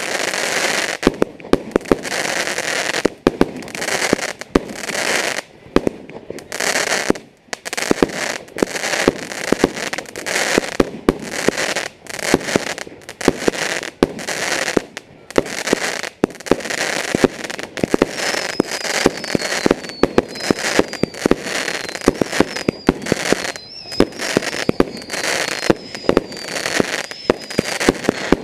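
Fireworks going off in a rapid, unbroken barrage of bangs and crackles. About two-thirds of the way through, a thin high whistle joins in, sliding down in pitch again and again.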